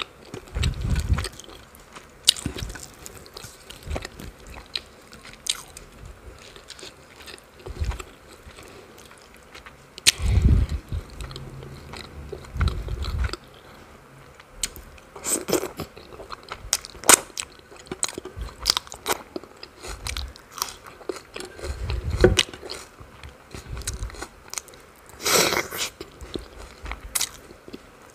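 Close-miked chewing and wet mouth sounds of a person eating chicken curry with paratha by hand, with irregular lip smacks and clicks and a few low thumps.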